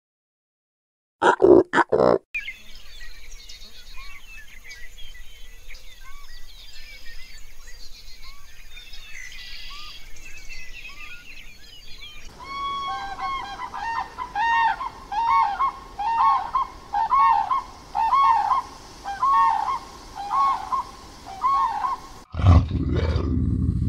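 Small birds chirping faintly, then a run of more than a dozen loud honking calls from large water birds, each rising and falling, one to two a second. There are a few short loud sounds about a second in, and a loud low sound starts near the end.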